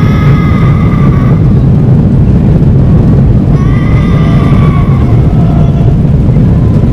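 Loud, steady low roar of an airliner cabin during takeoff and climb, with a high drawn-out wail rising over it twice.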